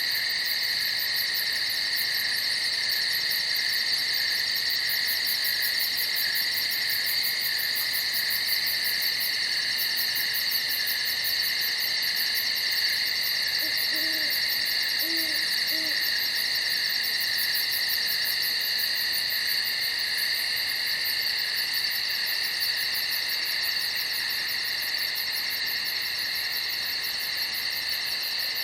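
Night chorus of crickets chirping steadily and continuously. About halfway through, three short low hoots sound softly beneath it.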